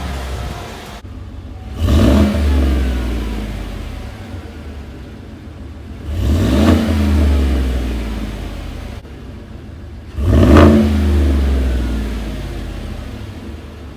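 Exhaust of a 2017 Chevrolet Silverado's 5.3-litre V8, blipped three times from idle. Each rev rises sharply and then sinks slowly back to idle, about four seconds apart.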